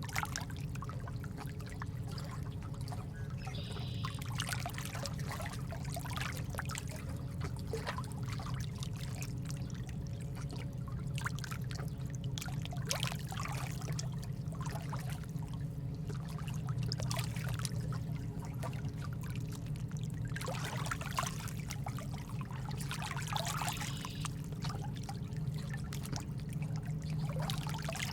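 Ambient water sound: water trickling and pouring unevenly in swells, over a steady low hum.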